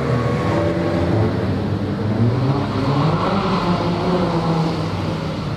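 Renault Clio rally car's engine revving hard through a tight cone course, the revs rising and falling repeatedly as the driver accelerates and lifts.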